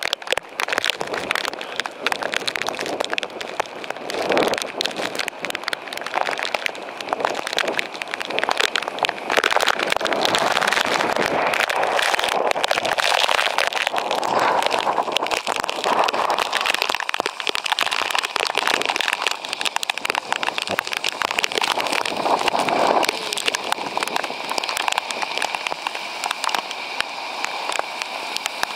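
Torrential downpour: heavy rain pouring onto pavement, with a dense crackle of drops striking close by and broad swells of storm wind now and then.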